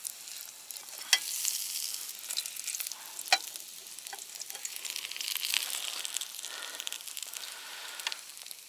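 Small perch coated in semolina sizzling in hot oil in a frying pan, a steady hiss with a few sharp pops and spits.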